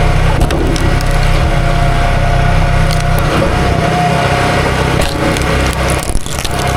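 Small gasoline engine running steadily under load while wood cracks and splinters; the engine's low note drops away briefly near the end.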